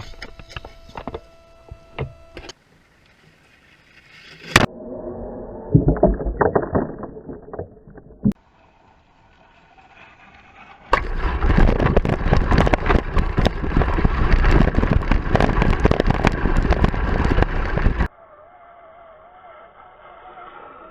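Tamiya Lunchbox RC monster truck with a brushless motor driving off-road in a string of short clips: knocks and bumps early on, then a long stretch of dense tyre and chassis rattling and thumps from about halfway through. It cuts off suddenly to a quieter stretch with a faint wavering motor whine.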